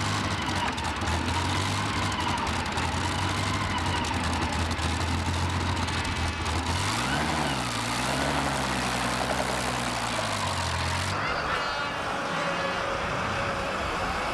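Heavy engine idling at a tractor pull, with a steady low hum. It revs up and back down once about seven seconds in, and the low hum cuts off about eleven seconds in.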